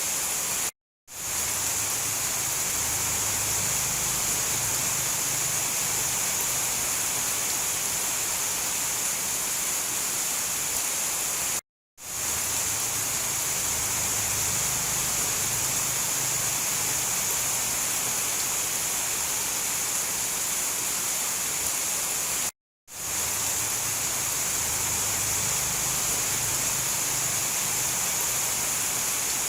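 Steady rain, an even hiss brightest in the treble, with no thunder. It cuts to silence for a split second three times, about eleven seconds apart, and fades quickly back in each time, where a looped recording restarts.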